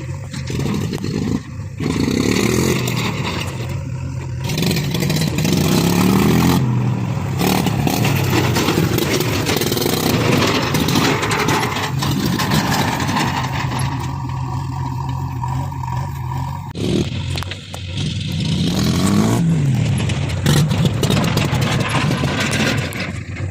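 Heavy diesel engine running under load and revving up and down, its pitch rising and falling twice, with a clattering mechanical noise over it.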